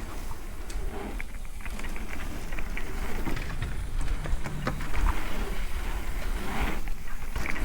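A mountain bike running down a dirt trail. Wind rumbles on the microphone, the tyres crunch over dirt and rock, and the bike rattles with scattered clicks over the bumps.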